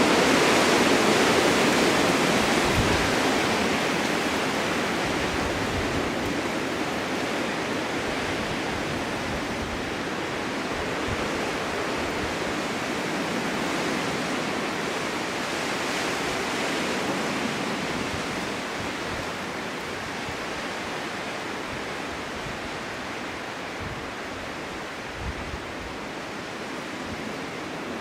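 Winter storm wind blowing, a steady rushing that is strongest at the start and slowly eases off.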